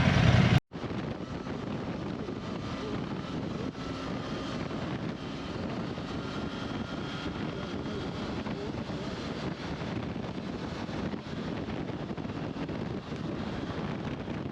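Motorcycle on the move: a steady engine drone mixed with wind noise on the microphone. It follows a louder sound that is cut off under a second in.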